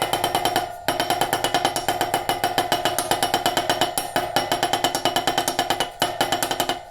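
Bicycle rear-hub freewheel ratcheting: a rapid, even run of clicks with a ringing tone, breaking off briefly about a second in and again near the end.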